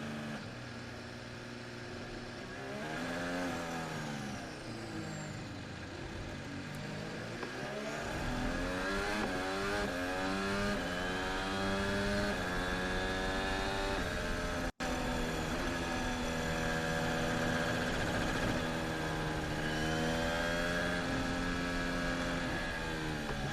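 Sergio Perez's 2021 Red Bull Formula 1 car, its Honda 1.6-litre turbo V6 heard from the onboard camera. The revs dip and climb twice in the first several seconds, then hold fairly steady with gentle rises and falls. The sound cuts out for an instant about two-thirds of the way through.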